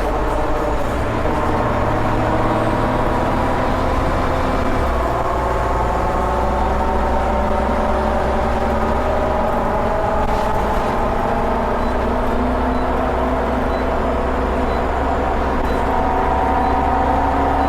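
Scania Omnicity bus's rear engine, heard from the back seat inside the cabin, pulling hard as the bus accelerates. The engine note climbs steadily, dips at gear changes about five and ten seconds in, then climbs again.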